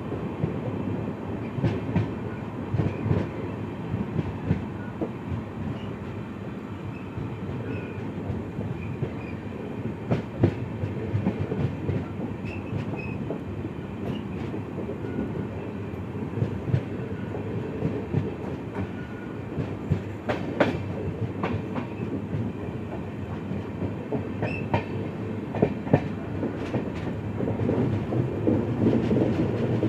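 Passenger train running along the track, heard from the side of the coach: a steady rumble of the wheels with scattered sharp clicks and knocks as they pass over the track. It grows a little louder near the end.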